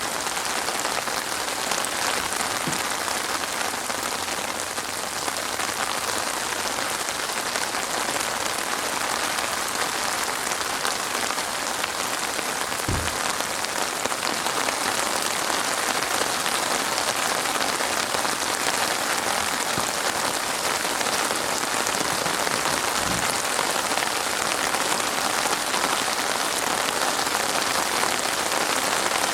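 Steady rain pattering on a surface, an even hiss without a break. Two brief low thuds are heard, about halfway through and again later on.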